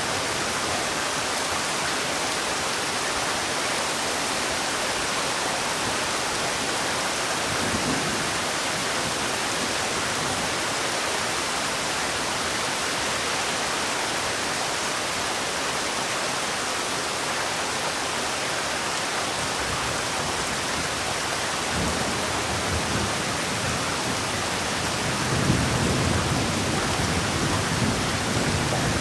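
Heavy rain falling steadily in a dense hiss, with a few low rumbles; the longest and loudest comes near the end.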